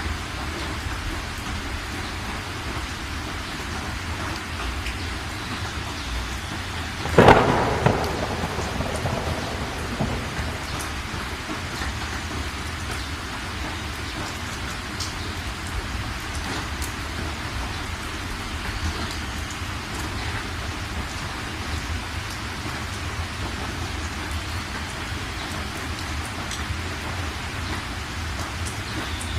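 Heavy rain falling steadily, with one loud clap of thunder about seven seconds in that rumbles away over the next few seconds.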